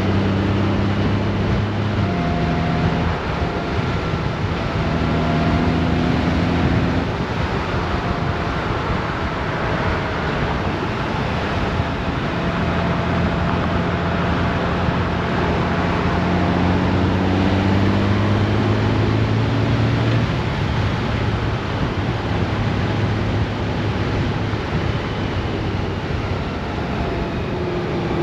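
Honda Gold Wing's flat-six engine running on the move under heavy wind rush. The engine note steps down and up in pitch a few times.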